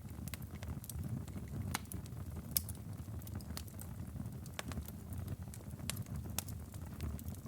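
Firewood burning in a fireplace, crackling: irregular sharp pops and snaps over a low steady rumble of the flames, with one louder pop about two and a half seconds in.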